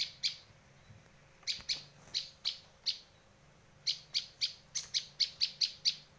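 Prenjak lancur (a prinia) giving sharp, dry chip calls in quick series. A couple of notes come first, then a spaced run, then a faster run of about nine notes near the end.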